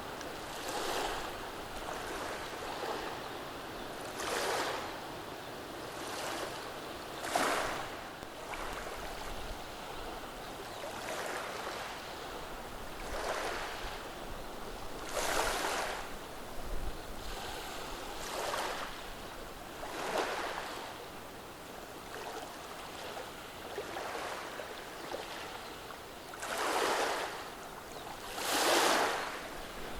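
Small, gentle waves washing over a beach of rounded pebbles, each wash a brief hissing swell and rattle of stones over a steady background of surf. About a dozen washes come at uneven intervals, the strongest near the end.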